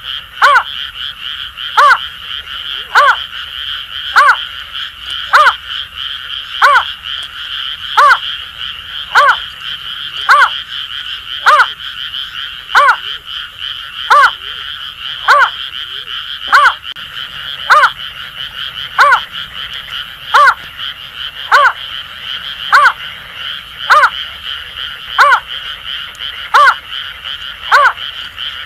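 A greater painted-snipe calling a low falling hoot, repeated about every 1.2 seconds, over a steady chorus of Asian grass frogs.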